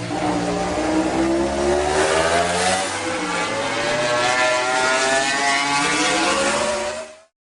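MotoGP racing motorcycle engine at high revs, its pitch climbing steadily as the bike accelerates. The sound cuts off abruptly near the end.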